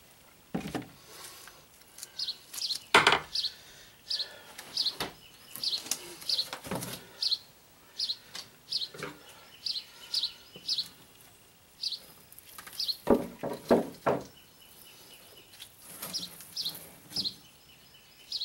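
A bird chirping over and over, short high calls about twice a second. A few sharp knocks and clatter from tools being handled stand out above it; the loudest comes about three seconds in, and a cluster of them around thirteen seconds.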